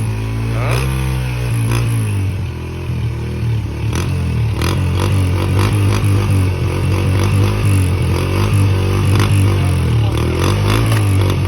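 Dirt bike engine running close by, with a short rev about a second in, then running on with a wavering pitch over a clatter of mechanical clicks.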